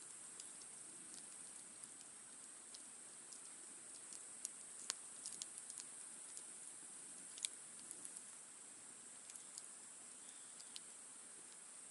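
Wood campfire crackling quietly, with irregular sharp pops and snaps, the loudest about five and seven and a half seconds in, over a steady high hiss.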